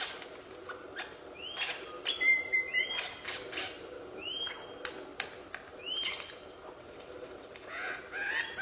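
A bird calling: short chirps that rise and then level off, repeated roughly every second or so, with a short steady whistle about two seconds in.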